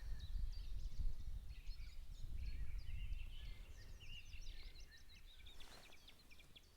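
Small birds chirping and twittering in many quick, high notes, over a low rumble.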